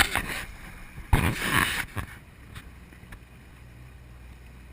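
Wind gusting against the microphone aboard a moving motorboat, twice in the first two seconds, then a steady low hum from the boat underway.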